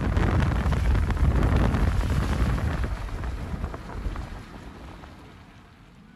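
Strong wind buffeting the microphone in a storm, a dense low rumble with crackling, fading away over the last few seconds.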